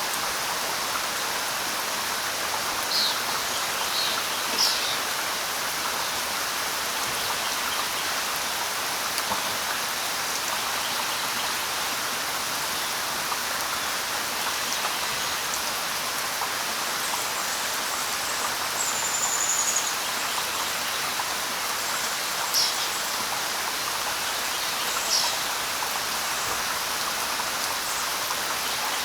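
Steady light rain pattering on leaves. A few short, high bird chirps come through at scattered moments, and a brief high note sounds about two-thirds of the way through.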